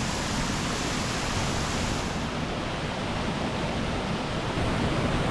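Small waterfall and rapids rushing steadily into a rock basin: a constant, full rush of falling and tumbling water.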